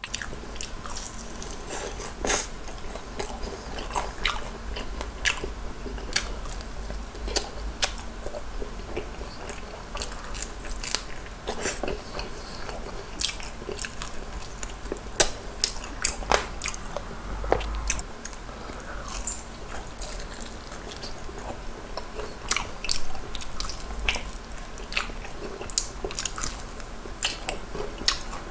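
Close-up eating of soy-garlic glazed fried chicken: biting and chewing with many short, irregular sharp clicks.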